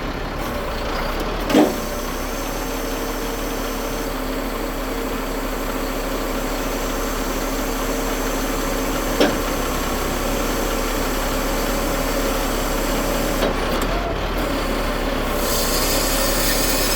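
The Ford F750's CAT 3126B inline-six diesel running steadily, with a steady hum from the knuckle-boom crane's hydraulics as the crane is worked. There are two sharp knocks, about a second and a half in and again about nine seconds in.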